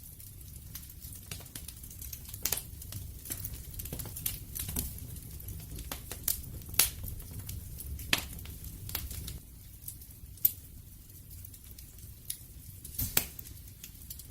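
Wood fire burning, with irregular sharp crackles and pops from the burning wood over a low steady rumble of flame.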